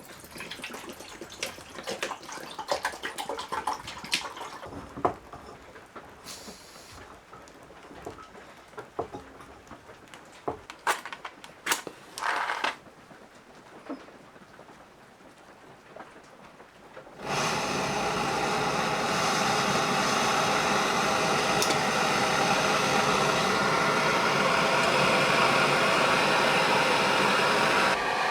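Clinks and knocks of cooking gear being handled while making coffee. About 17 seconds in, a loud, steady rushing hiss starts suddenly and runs about eleven seconds before cutting off abruptly.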